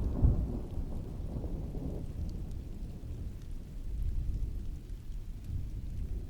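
Distant rolling thunder over steady rain: a deep rumble, loudest in the first second or two, that dies down to a lower rumble with smaller swells later on, under a faint patter of rain.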